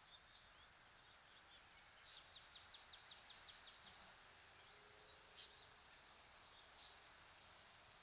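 Faint calls of small birds over a steady hiss: a short high call, then a rapid, evenly spaced run of about ten chips, with single calls again midway and a brighter call near the end.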